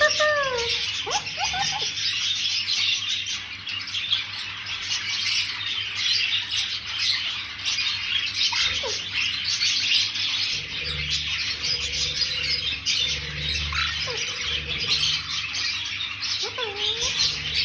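Continuous dense chirping of birds, with a few short sliding calls over it; a low hum joins about ten seconds in and fades out near fifteen seconds.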